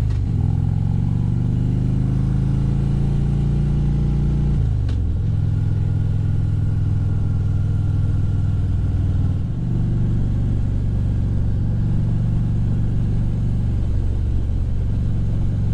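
Motorcycle engine running steadily under way, its note dipping and picking up again about five and ten seconds in.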